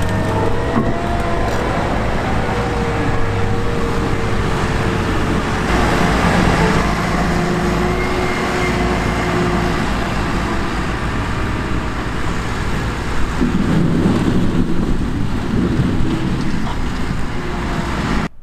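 Heavy diesel farm machinery running close by, a steady engine note with a deep rumble that swells about two-thirds of the way through, then cuts off abruptly near the end.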